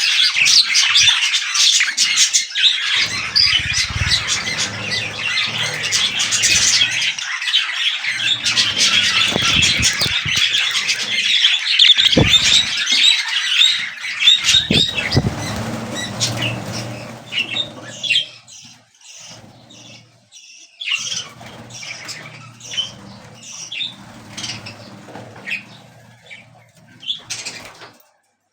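Budgerigars chattering and chirping in a dense, loud stream of high calls. From about two-thirds of the way through, this thins out into quieter, separate chirps.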